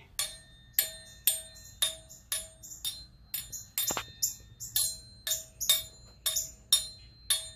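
Metal ice cream scoop hanging from a string, struck over and over at about two hits a second; each hit rings briefly with a clear bell-like tone.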